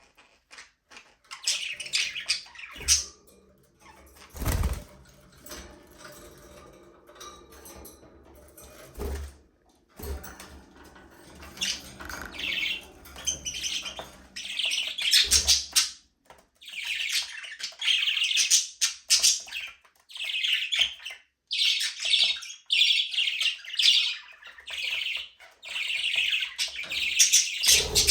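Budgerigars chattering and chirping in quick, high bursts, sparse at first and nearly continuous from about halfway. A few dull thuds are heard in the first half.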